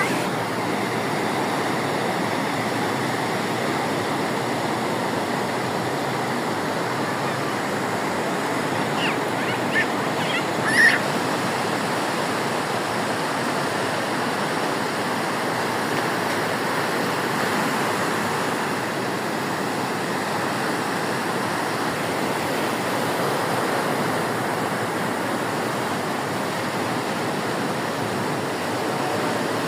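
Sea surf breaking on a beach: a steady, unbroken rush of waves. A few brief high chirps cut through about ten seconds in.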